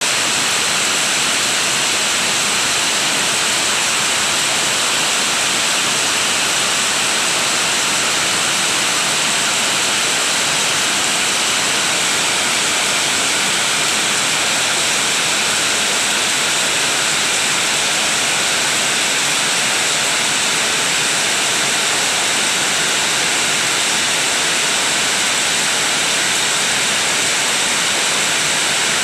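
Heavy rain pouring down in a steady, dense hiss that never lets up.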